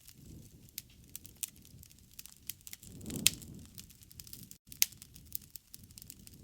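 Wood fire crackling: irregular sharp pops and snaps over a low rumble of burning, with one louder pop about three seconds in.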